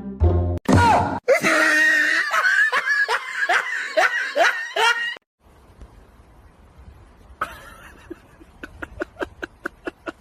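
A person laughing loudly in a run of short, falling 'ha' bursts for about four seconds. After a quiet gap, a quick series of light clicks follows near the end, about four or five a second.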